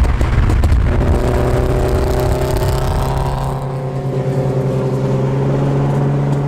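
Nissan 350Z's V6 engine running at fairly steady revs: a loud low rumble in the first second, then a steady drone whose higher tones drift slightly upward.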